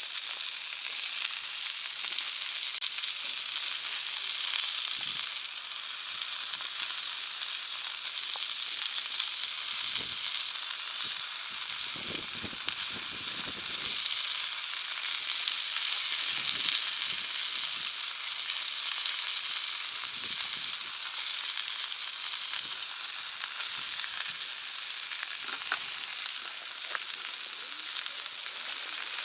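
Meat sizzling steadily on a hot cast-iron jingisukan grill pan heated by a wood fire, a continuous frying hiss with a few faint knocks.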